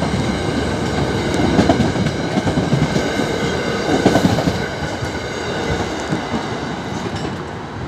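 Passenger train at a station platform running: a heavy mechanical rumble with a steady high whine over it, loudest in the middle and easing slightly toward the end.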